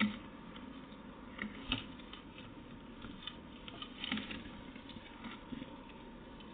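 Scattered light taps and clicks at irregular intervals over a steady background hiss, the sharpest right at the start and about two seconds in.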